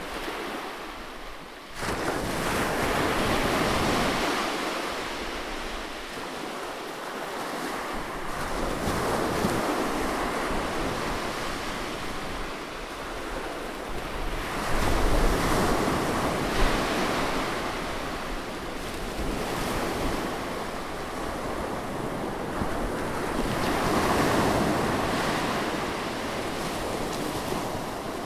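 Sea waves breaking close by on a shore, a steady wash of surf that swells and fades in slow surges, with a new wave crashing in suddenly about two seconds in and a deeper rumble in the middle.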